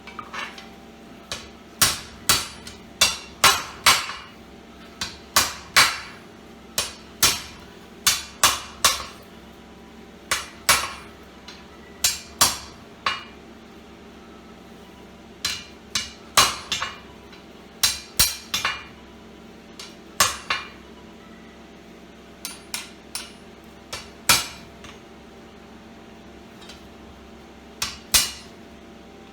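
Blacksmith's hammer striking hot 10 mm square steel bar on an anvil during hand forging: sharp, ringing blows in irregular bursts of two to five strikes with short pauses between bursts, over a faint steady hum.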